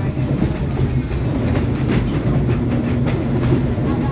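Subway train running on the rails: a steady low rumble with the wheels clicking over rail joints.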